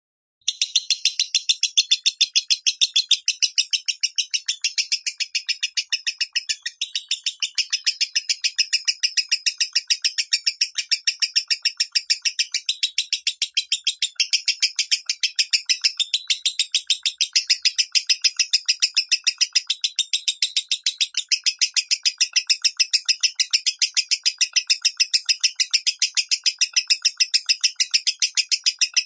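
Lovebird singing in the 'minor' voice: a long, unbroken run of rapid, evenly pulsed high chattering that starts about half a second in and keeps on without pause.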